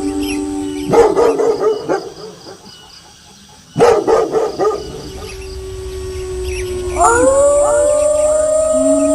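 Wolves howling in chorus, several long held notes overlapping. They are broken about a second in, and again near four seconds, by loud bursts of dog barking. A fresh chorus of howls begins with rising glides about seven seconds in.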